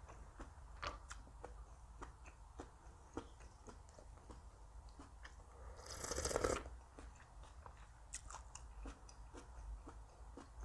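Close-miked eating: a person chewing and crunching food, with many small crisp clicks and one louder crunchy burst lasting under a second about six seconds in.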